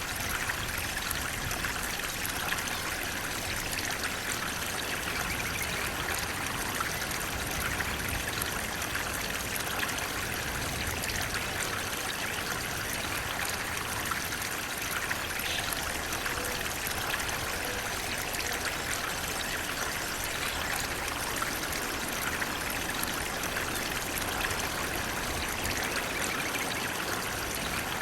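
Flowing water, a steady, unbroken rushing splash that holds the same level throughout.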